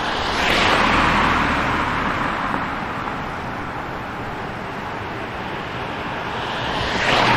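City street traffic: a car passes close by, swelling and fading about a second in, and another passes near the end, over a steady background of traffic.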